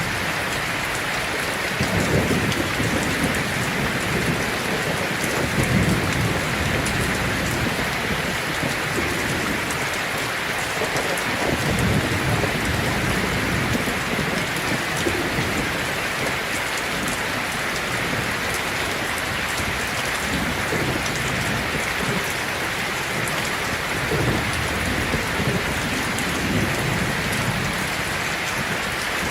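Heavy rain falling on a tin roof, a steady dense hiss, with several low rumbles of thunder rolling in and fading.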